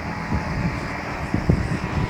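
Wind buffeting the microphone in uneven low gusts, over a steady background hiss.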